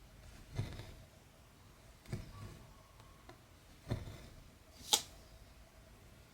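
Hand cross-stitching on 14-count fabric: the needle pushed through the cloth and the thread drawn after it, a soft stroke about every one and a half to two seconds. Near the end, a sharper click.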